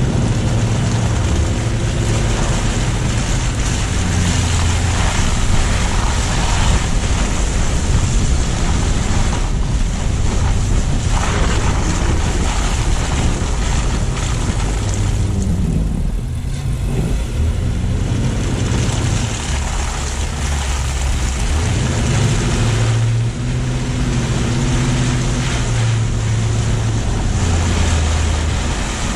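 A car driving on snow-covered city streets: steady tyre and road noise with a hiss like water spray from slush, over an engine hum that rises and falls with speed, and some wind on the low-mounted microphone. The sound dips briefly around the middle.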